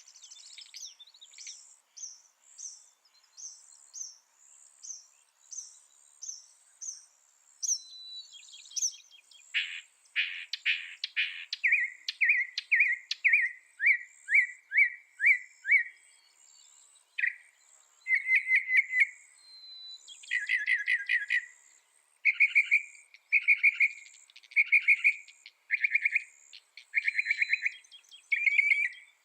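Mockingbird singing a varied song made of different phrases, each repeated several times before switching. First comes a run of high, thin notes, then buzzy notes about a third of the way in, then strings of lower, quick repeated chirps.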